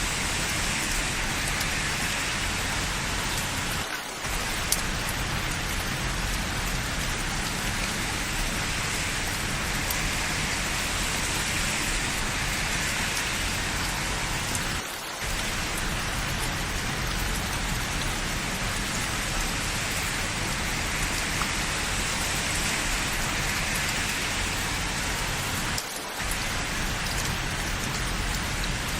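Steady rain falling in a continuous even hiss, with brief dips in level about every eleven seconds.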